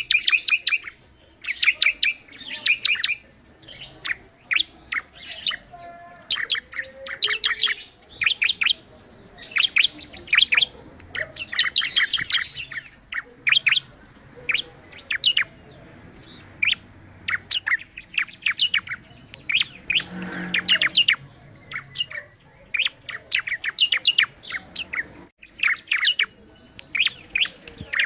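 Bar-winged prinia (ciblek) singing: quick runs of sharp, high chirps, several notes to a burst, repeated with short pauses between.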